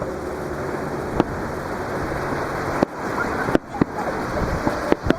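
Surf washing on the shore with a steady rush, broken by about six sharp bangs of aerial fireworks bursting.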